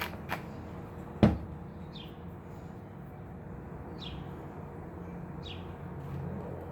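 One sharp knock about a second in, then faint short high chirps every second or so over a low steady hum.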